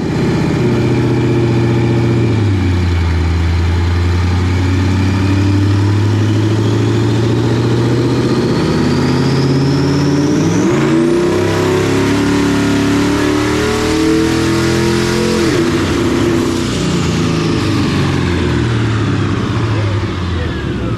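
Ford Crown Victoria's twin-turbocharged 4.6-litre two-valve V8 running hard under boost, its engine note shifting in steps, with a high turbo whistle that climbs for about ten seconds and then falls away as the engine backs off.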